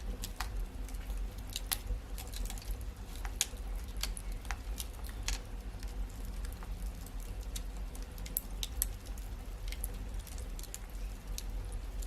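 Fire crackling in a fireplace: irregular sharp pops and snaps, sometimes several in quick succession, over a low steady rumble.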